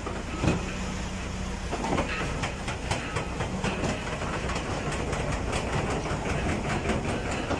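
Steady rumbling noise of a moving vehicle, with rapid, irregular clicks and knocks running through it.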